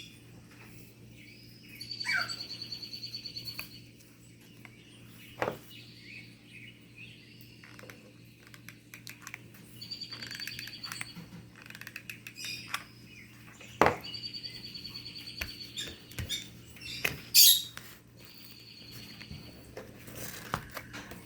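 Lovebirds chirping in bursts of rapid, high repeated notes lasting a second or two, several times over. A few sharp clicks are heard about five, fourteen and seventeen seconds in, over a steady low hum.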